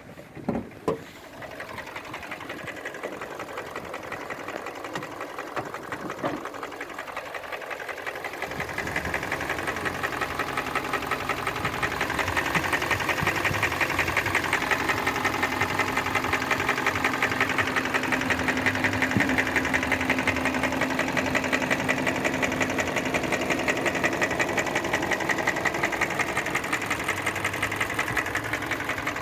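Hyundai ix35's G4NA 2.0-litre four-cylinder petrol engine running with a fast, even knocking, the knock it makes at 135,000 km once hot. Two sharp knocks come about half a second in, and the engine sound grows louder from about nine seconds in.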